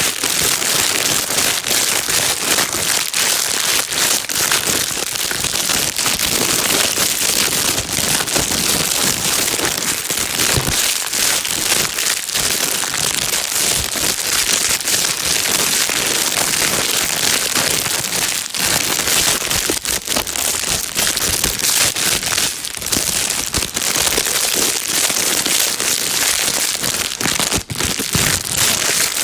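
Plastic bag being crinkled and rustled, a steady dense crackle without pause, used as white noise to calm a crying baby.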